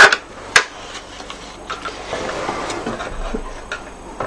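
Cardstock being handled on a craft table: two sharp taps, the second about half a second after the first, then soft rustling and scraping of paper.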